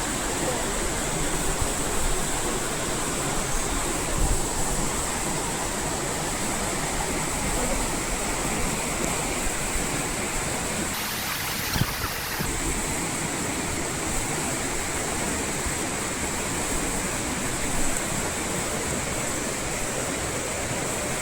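Water rushing steadily over rocks in a forest stream, with a steady high hiss above it that breaks off briefly about eleven seconds in.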